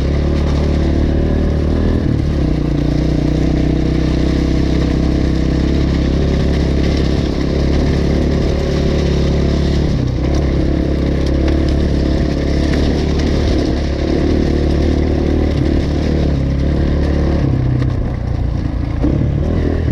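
Single-cylinder enduro dirt bike engine running at low, fairly steady revs, its pitch shifting a little now and then as the rider works the throttle over rough ground.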